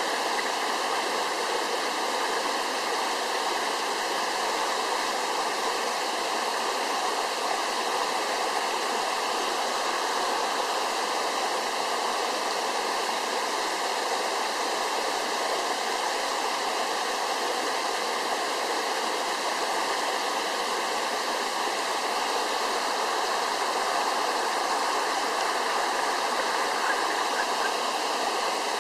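Waterfall pouring steadily, a continuous rushing of falling water.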